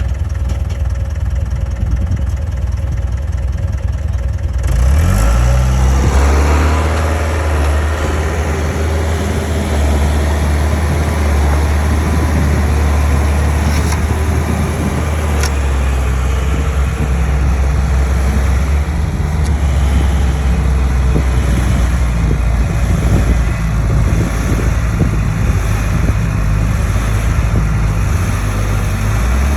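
Heavy-equipment diesel engine running low, then revving up about five seconds in and holding at high revs under load.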